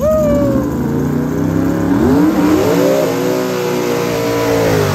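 Drag car engine revving hard: the pitch drops at first, climbs again about two seconds in and is held high, as in a burnout, then cuts off suddenly at the end.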